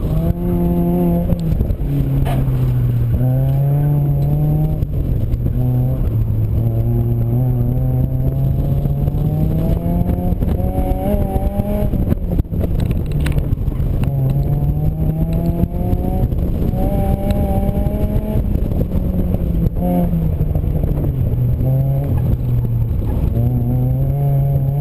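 Mazda Miata's four-cylinder engine driven hard on an autocross course. Its pitch climbs slowly under acceleration and drops back several times as the driver lifts and shifts. Wind and road noise run underneath, heard from the open-top car.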